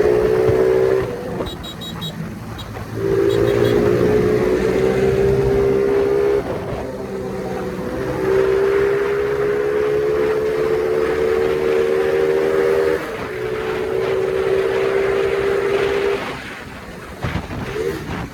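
Small Phoenix 50cc motorcycle engine with a popper exhaust, running hard with a droning note whose pitch climbs slowly through each stretch. It drops away briefly about a second in, and again around six, thirteen and sixteen seconds in, as the throttle is lifted or a gear is changed. Near the end it settles to a lower running note, with one sharp pop.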